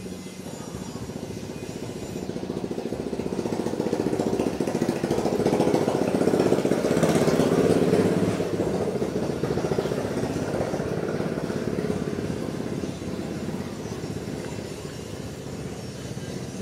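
A small engine running, growing louder to its peak about halfway through and then fading away, as if passing by.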